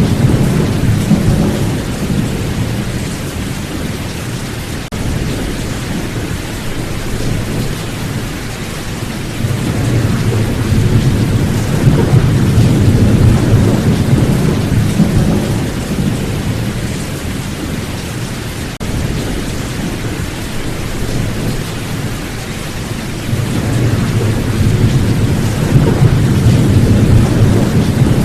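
Steady heavy rain with thunder rumbling in long, low swells that build and fade: one at the start, another about ten seconds in, and a third near the end.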